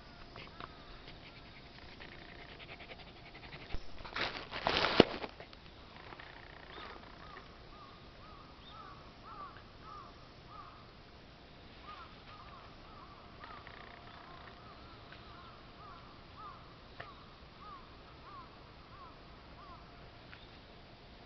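A bird calling in a long run of short, rising-and-falling chirps, about two a second. About four seconds in, a loud rush of noise lasts roughly a second.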